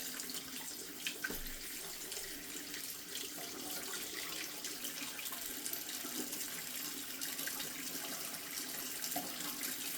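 Tap water running steadily into a sink and splashing over a plastic washing machine detergent drawer as it is scrubbed, with small scattered clicks and knocks.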